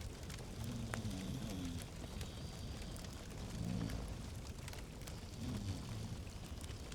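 Log fire crackling in a fireplace: steady soft hiss with scattered small pops and snaps. A low, wavering sound comes and goes every couple of seconds.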